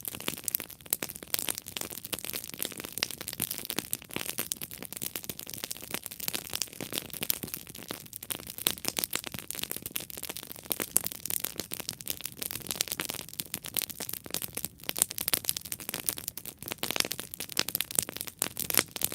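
Campfire burning with dense, continuous crackling and popping of the burning wood.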